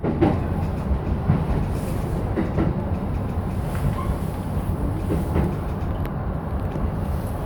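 E233-7000 series electric train running, a steady low rumble of wheels on rail with a few sharp clicks from the track.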